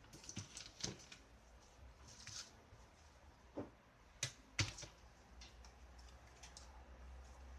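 Irregular light clicks and knocks of small hard objects being handled, with two sharper knocks a little past halfway.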